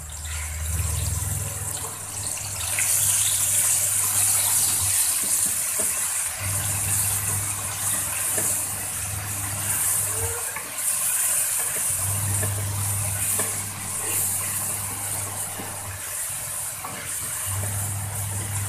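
Ground spice paste of shallot, garlic, turmeric, ginger and galangal sizzling as it is sautéed in hot oil in a wok and stirred with a wooden spatula; the sizzle swells about two seconds in. A low hum comes and goes underneath.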